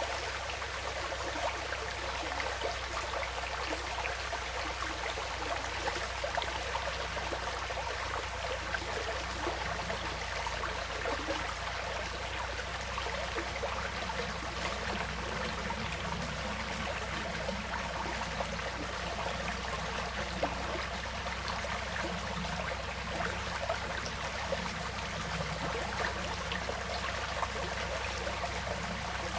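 Small woodland stream flowing and trickling steadily over stones.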